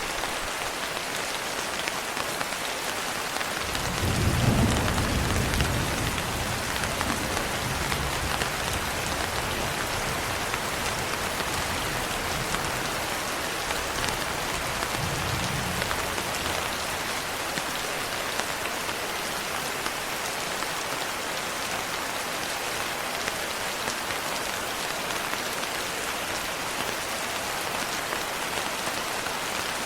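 Steady rain falling with an even hiss. A low rumble of thunder comes in about four seconds in and dies away over a few seconds, and a fainter rumble follows in the middle.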